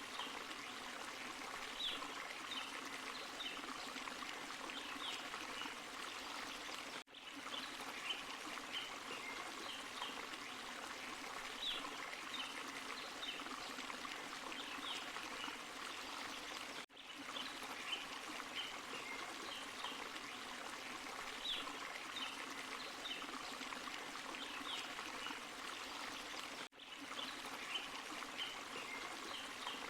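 Forest stream and small waterfall: steady rushing, splashing water, broken by three brief dips in level about ten seconds apart.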